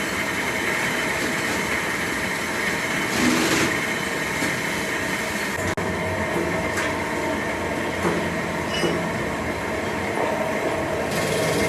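Steady machinery noise in a metalworking factory, with a faint steady whine and a few light clicks and knocks.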